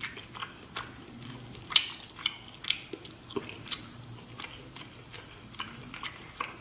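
Close-miked mouth sounds of a person eating shrimp: chewing with a string of sharp, irregular lip smacks and clicks, a few a second.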